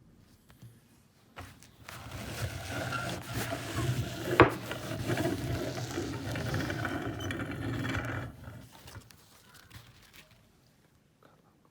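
Meat grinder running and grinding for about seven seconds, with a sharp crack about four seconds in. It starts about a second and a half in and stops suddenly near the end.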